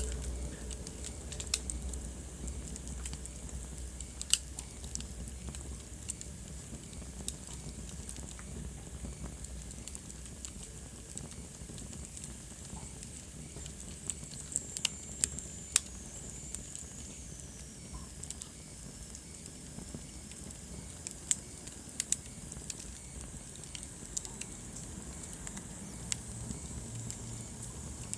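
Wood fire crackling, with irregular sharp pops over a steady low rumble of flames. About halfway through, a faint high whistle falls in pitch over a couple of seconds.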